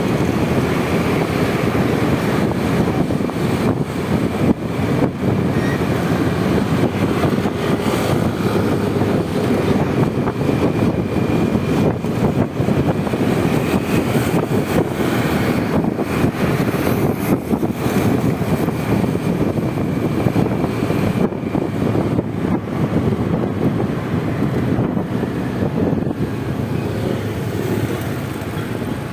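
Steady riding noise on a Honda Vario 125 scooter moving through city traffic: a continuous rush of wind and road noise, with the traffic around it. The noise eases slightly near the end.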